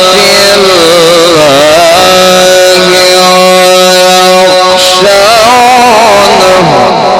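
A man's voice in melodic Quran recitation (mujawwad tajweed), holding long ornamented notes that waver and glide in pitch, trailing off near the end of the phrase.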